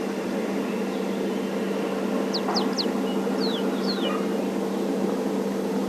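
A vehicle engine idles with a steady hum. About two to four seconds in, a bird gives a few short, high chirps that fall in pitch.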